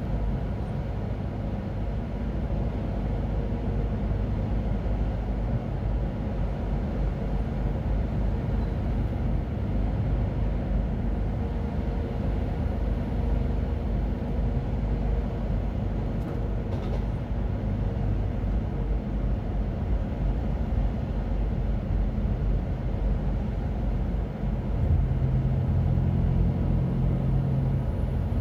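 Diesel truck engine running steadily, heard from inside the cab with a low rumble; near the end a deeper engine hum grows a little louder.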